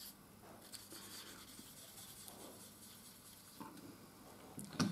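Faint rubbing of very worn, lightly oiled 1200-grit wet-and-dry paper on the chrome fork stanchion of a Honda Africa Twin CRF1000L. It is taking out a small stone-strike scratch that can let oil leak past the fork seal.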